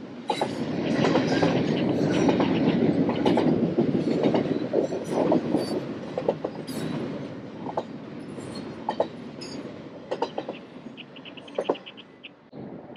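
Double-stack container freight train rolling past, with wheels clicking over rail joints and brief wheel squeals and creaks from the cars. Loudest in the first few seconds, then fading as the end of the train goes by.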